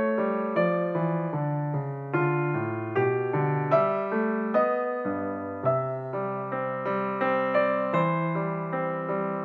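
Background piano music: a slow melody over chords, each note struck and fading, new notes about twice a second.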